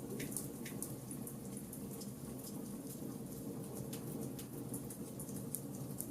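Charcoal campfire burning, crackling with many small irregular pops and ticks over a steady low background noise.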